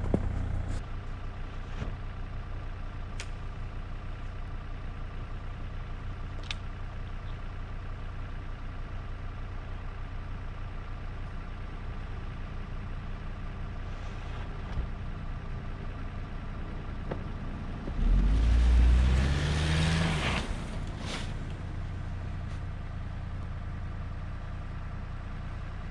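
An engine idles steadily. About eighteen seconds in, the Nissan Versa's engine revs, its pitch rising, with a rush of noise for about two seconds as the car drives out of its snow hole.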